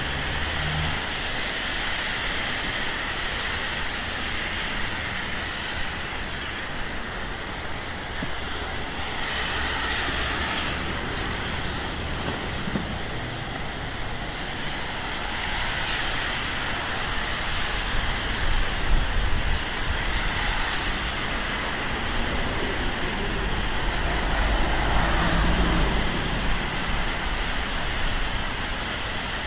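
City street traffic in the rain: a steady hiss of rain and wet pavement, with cars going by and their tyres hissing on the wet road. Two heavier vehicles pass with a deeper rumble, about two-thirds of the way through and again near the end.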